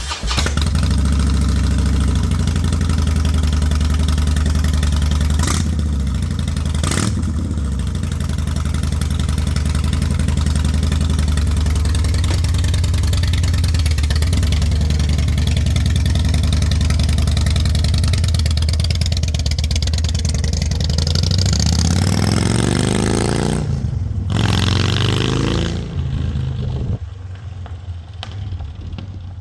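Harley-Davidson Dyna Super Glide's air-cooled V-twin running loud through Vance & Hines Straight Shot slip-on mufflers, a deep steady exhaust rumble with the pitch rising and falling as it is revved about three quarters of the way through, then dropping to a quieter idle near the end.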